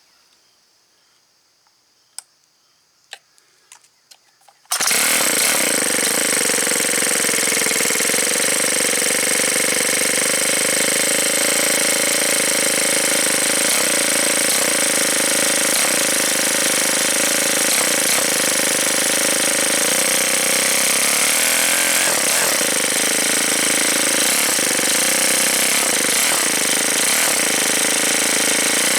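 Ryobi S430 four-stroke string trimmer engine running loud and steady, starting abruptly about five seconds in after a few faint clicks.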